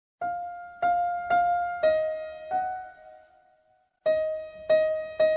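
Slow solo piano melody of single struck notes, each ringing and fading. It breaks off for about a second past the halfway point, then resumes.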